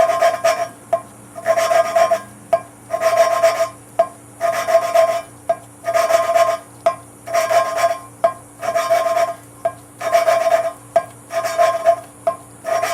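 A poppet valve is lapped against its seat in a Ford 302 V8 cylinder head with grinding compound, twisted back and forth on a suction-cup lapping stick. It makes a rhythmic gritty rasping, with about one stroke a second.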